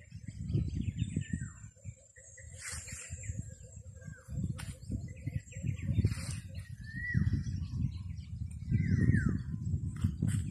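Small birds calling with short, repeated downward-sliding chirps, over an irregular low rumble of wind buffeting the microphone.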